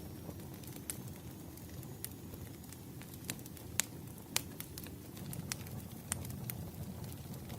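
Wood fire burning: a low steady rumble with scattered sharp crackles and pops of the burning logs, the two loudest near the middle.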